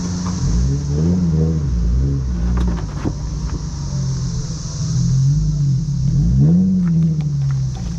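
Car engine idling and being revved in short blips several times, its pitch rising and falling back each time.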